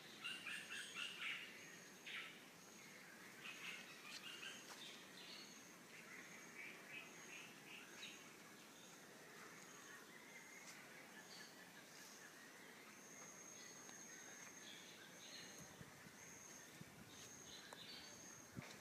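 Faint birds chirping and twittering, busiest in the first several seconds, with a high, thin note repeating about every three-quarters of a second throughout.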